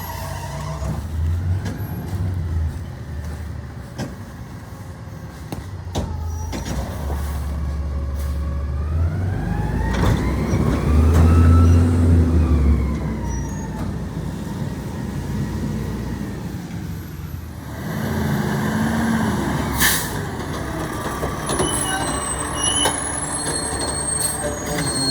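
Garbage truck engine running, its pitch rising and then falling back about ten seconds in, with a short sharp sound near the end.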